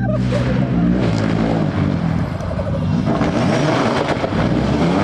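A rally car going hard past the roadside, its engine revving, with a loud wash of tyre noise that swells twice.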